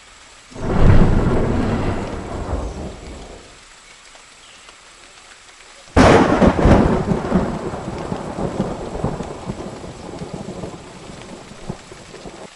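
Steady rain with two peals of thunder: a rolling rumble about half a second in that fades over three seconds, then a sharper crack about six seconds in that rumbles on and slowly dies away.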